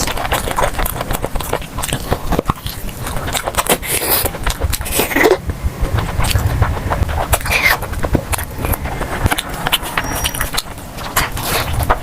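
Close-up eating sounds: irregular wet clicks and crackles of chewing and handling food, loud and close to the microphone.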